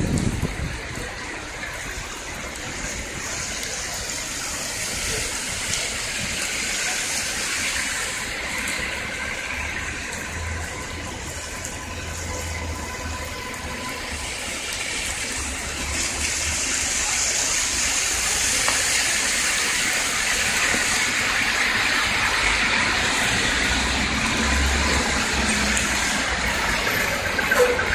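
Heavy rain falling on a city street, with traffic hissing through the wet road. A low rumble of passing vehicles swells in the middle and again near the end as a city bus goes by.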